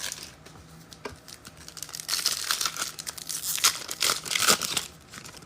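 Foil trading-card pack wrapper being torn open and crinkled: a few light clicks at first, then from about two seconds in a stretch of dense crinkling and tearing.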